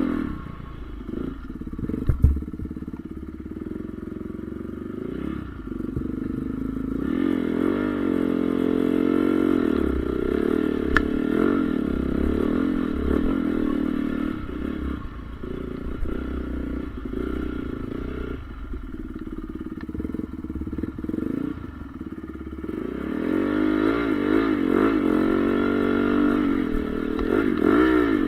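Honda CRF450R motocross bike's single-cylinder four-stroke engine revving up and down as it is ridden, the pitch rising and falling again and again. It is loudest in two long stretches, the second near the end, with a sharp knock about two seconds in.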